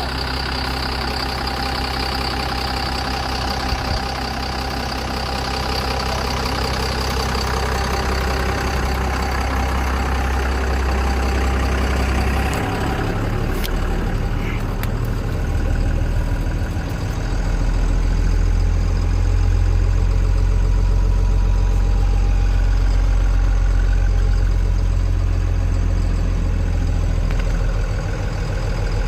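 Heavy diesel truck engine idling steadily, a continuous low hum that grows a little heavier and louder about two-thirds of the way through.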